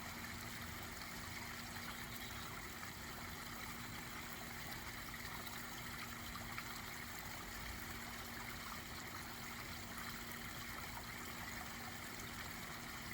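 Backyard pond waterfall running water, a steady trickling and splashing with no change.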